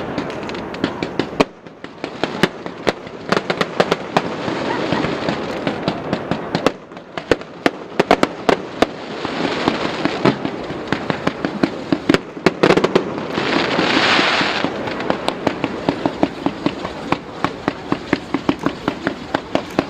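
Fireworks going off: a dense run of sharp cracks, several a second, over waves of rushing hiss, the loudest swell of hiss about two thirds of the way through.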